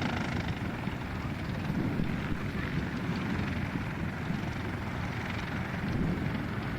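Propeller aircraft engine running, a steady low rumble with no clear pitch.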